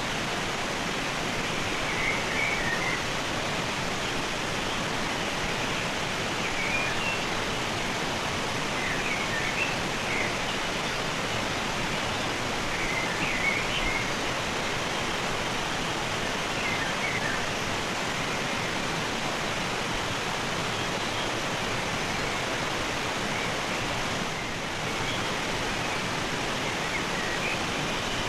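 Rushing river water, a steady full hiss, with faint high bird chirps every few seconds.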